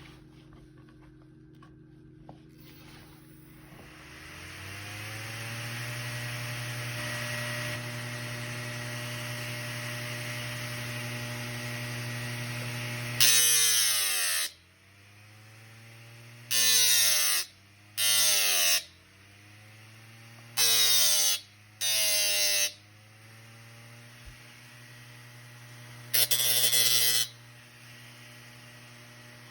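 Electric sanding machine's motor spins up and runs with a steady hum. Then six loud, harsh bursts of sanding come as work is pressed against the abrasive, the motor's pitch sagging under each load and recovering afterwards.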